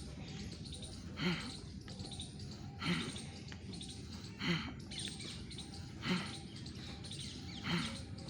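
A bird calls with one short call about every second and a half, five times, over a steady background hiss.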